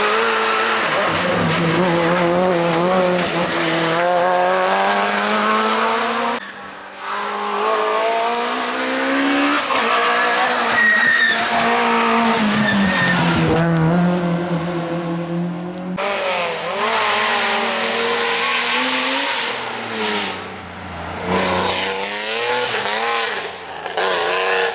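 Rally cars at full throttle on a stage, engines revving up and dropping back through gear changes, with tyres squealing. The sound breaks off abruptly twice as one car gives way to the next.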